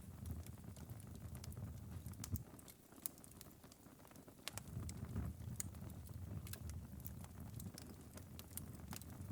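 Ember bed of a wood-burning fireplace crackling, late in a long burn: sparse, irregular sharp pops and ticks over a low rumble. The rumble drops away for about two seconds, about three seconds in.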